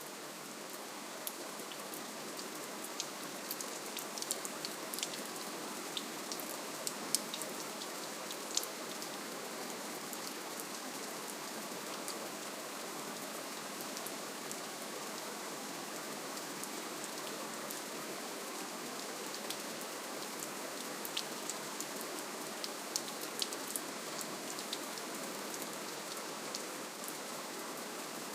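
Steady, gentle rainfall: a continuous even hiss of rain with scattered sharp individual drop ticks.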